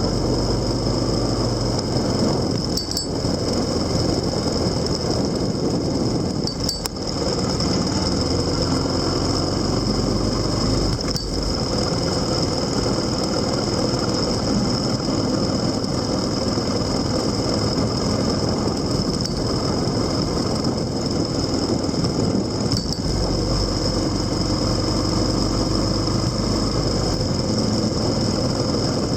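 A vehicle engine running steadily with road and wind noise, heard on board while riding. Its low hum shifts in pitch a few times as the speed changes, with a few faint clicks.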